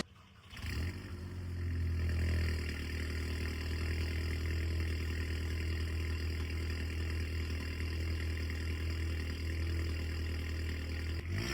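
Cold start of a 2007 Audi TT's 2.0 TFSI turbo four-cylinder (BWA engine), fitted with an aftermarket downpipe. It catches about half a second in, flares up over the next second or so, then settles into a steady idle.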